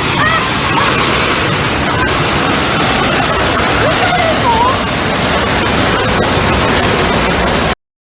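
Loud, steady rushing roar of a torrent of water and debris, with faint distant shouting. It cuts off suddenly near the end.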